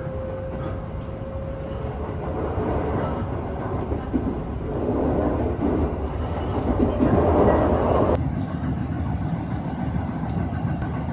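Train running on the rails, a steady rumble of wheels and running gear that swells for a few seconds and then drops off abruptly about eight seconds in.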